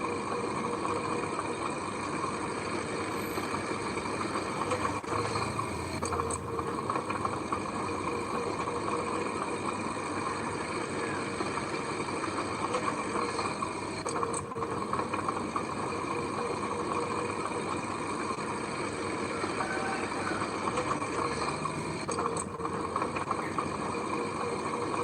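Heavy machine engine running steadily, with a dense unbroken mechanical noise and a few faint clicks.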